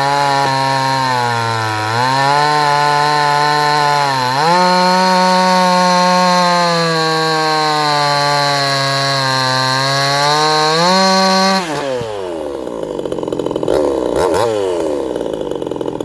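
58cc two-stroke Chinese chainsaw running at full throttle in a cut, its revs sagging under load and picking back up twice. About twelve seconds in the throttle is let off and the engine drops suddenly to a lower, rougher running note.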